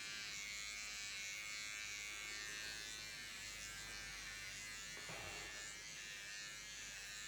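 Small electric shaver running steadily with a high buzz as it clips out clumps of matted fur from a small dog's coat.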